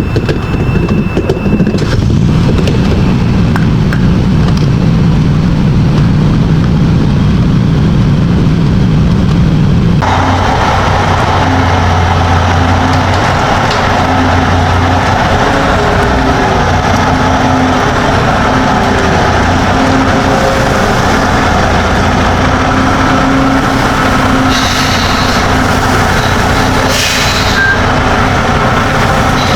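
Semi truck on the road: steady engine drone and road noise. The sound changes abruptly about ten seconds in, after which a lower, steadier engine hum carries on.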